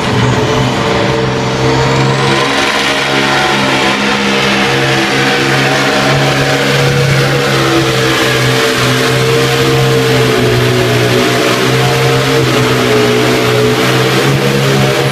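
A competition pulling tractor's engine running loud at full power during a pull. A high whine rises in pitch about a second in.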